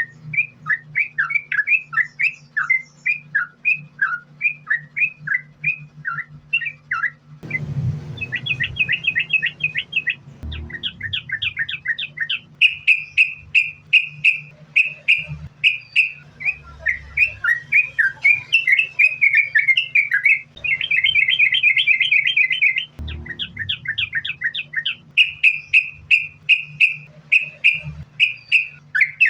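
Yellow-vented bulbul (trucukan) singing continuously in fast runs of short chirping notes. The song changes abruptly several times, with a brief thump at each change, over a steady low hum.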